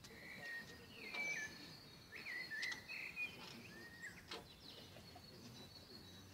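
Wild birds singing faintly, with a few short whistled and chirping phrases in the first three seconds over a thin, steady high tone. A single sharp click comes a little after four seconds.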